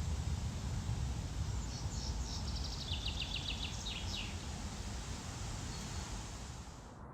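A small songbird singing a rapid trill of quick notes that step down in pitch, lasting about three seconds, over a steady background of low outdoor noise.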